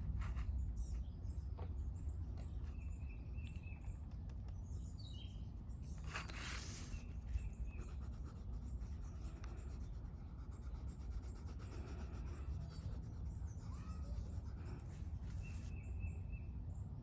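Coloring on paper, the drawing tool scratching in short strokes, with a longer scratchy stroke about six seconds in. Birds chirp now and then over a steady low outdoor rumble.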